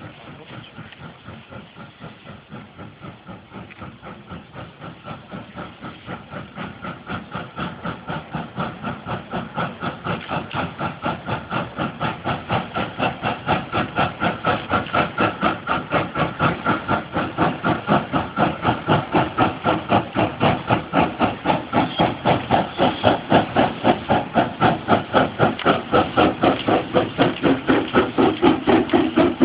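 Steam locomotive working, its exhaust beats coming in a fast, even rhythm of several a second and growing steadily louder throughout.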